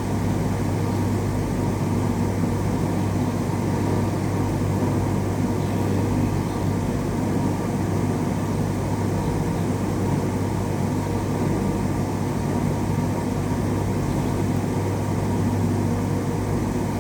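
Hot-air rework station blowing steadily over the circuit board to desolder an IC, a constant hiss over a low electrical hum.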